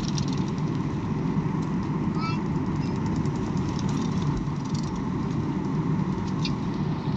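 Passenger airliner's steady rumble of engine and air noise, with a faint steady hum.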